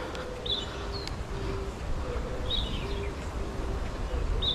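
Wind buffeting the microphone as a steady low rumble, with a small bird giving short high chirps every second or two.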